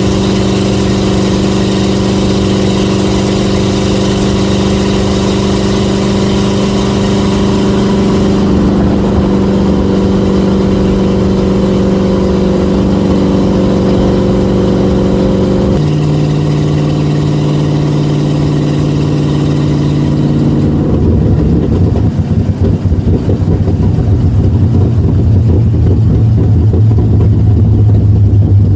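Chevy 350 V8 in a 1967 Chevrolet Bel Air running, its exhaust note holding steady pitches that jump abruptly to new ones every few seconds. In the last quarter it turns to a lower, rougher rumble.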